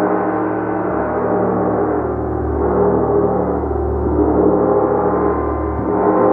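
A gong played continuously: a dense, sustained wash of many overlapping ringing tones, with a low hum that swells and ebbs.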